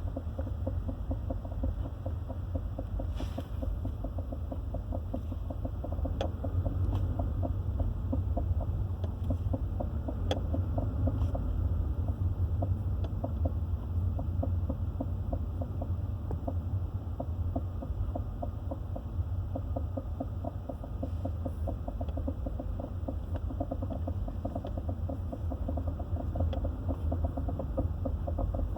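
A vehicle moving along, with a fast, even knocking over a steady low hum.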